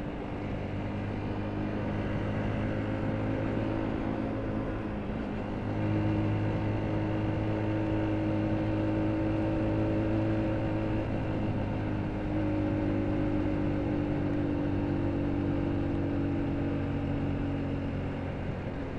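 Motorcycle engine running at road speed under wind and road noise. The engine note steps up and gets louder about six seconds in, shifts a couple of times, and eases off near the end.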